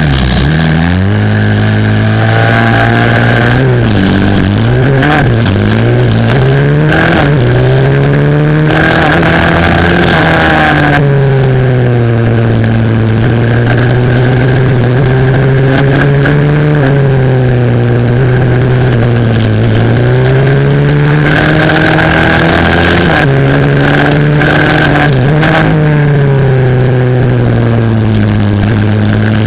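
A 140cc single-cylinder four-stroke pit bike engine heard onboard at racing speed, its note repeatedly climbing under throttle and dropping off again through gear changes and corners.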